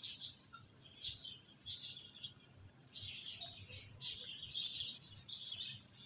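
Small birds chirping, short high calls repeating about one or two times a second.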